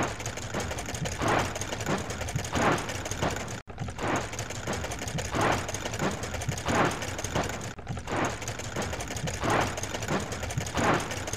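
Looped cartoon sound effect of a spinning car-wash brush scrubbing: a fast mechanical rattling whir with a swish about every second and a half. The loop breaks off for an instant twice.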